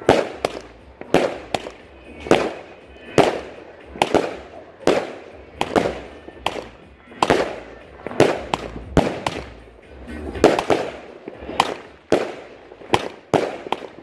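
Festival Khalifa firework cake firing shot after shot: a steady run of sharp bangs, about three every two seconds, each aerial shell burst trailing off in an echo.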